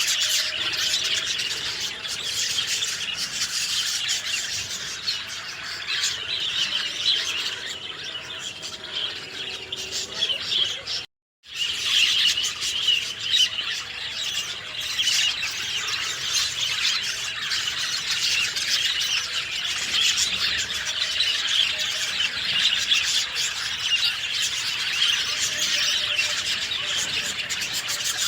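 Many birds chirping and singing at once, a dense chorus of overlapping short calls. About eleven seconds in the sound cuts out completely for a moment, then the chorus resumes.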